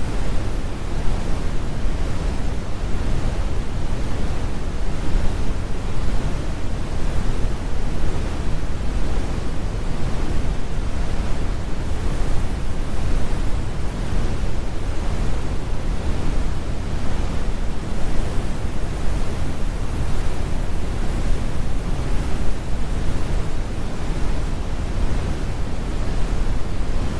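Synthetic brown noise: a steady, deep rumble with its energy in the low end and the highs rolled off.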